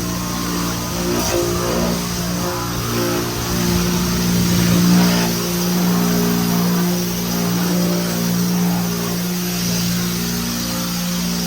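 Pressure washer running steadily: a constant motor hum under the hiss of the spray.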